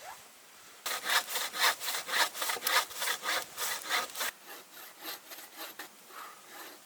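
Hand saw cutting wood in quick back-and-forth strokes, about four a second, then fainter, more spaced strokes for the last couple of seconds.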